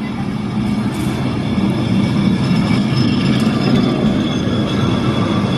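Lisbon tram running close by on its street rails: a loud low rumble with steady high whining tones above it, growing louder over the first few seconds.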